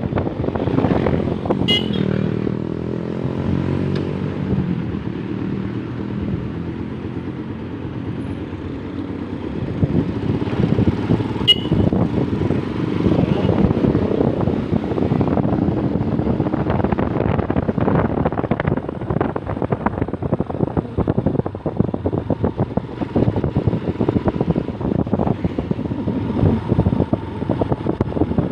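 Rusi Nova SS 150 motorcycle engine running while being ridden, its pitch sagging over the first several seconds and then rising again as it speeds up, over steady road and wind noise.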